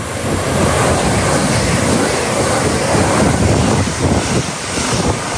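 A train passing at speed: a loud, steady rush of noise that swells in the middle and eases towards the end, with wind noise on the microphone.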